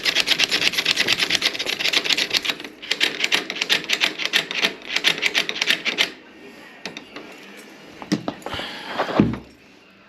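Door-knob latch bolt being worked rapidly in and out, a fast clatter of clicks about eight a second that stops about six seconds in, to loosen a sticky latch. A few separate clicks follow, then a single louder knock near the end.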